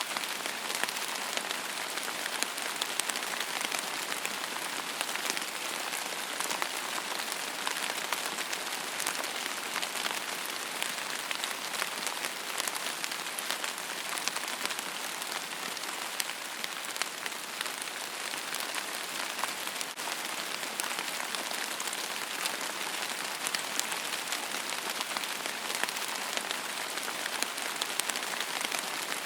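Steady rain falling on a surface, an even hiss scattered with many small drop ticks.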